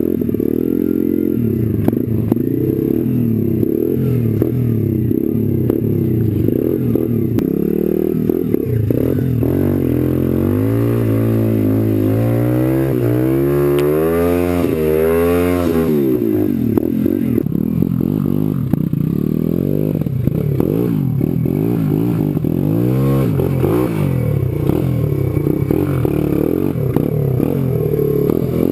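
Pit bike engine running hard, the revs rising and falling over and over. It climbs to a high-revving peak about halfway through, then drops off sharply, with scattered knocks and clatter from the bike over the ground.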